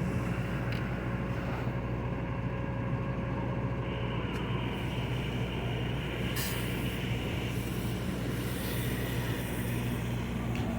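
Steady low hum of a vehicle engine idling, even and unchanging.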